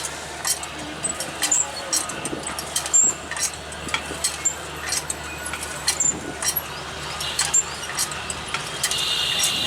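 Passenger train pulling out, its wheels clicking irregularly over the rail joints over a steady low hum. A high, even squeal starts near the end.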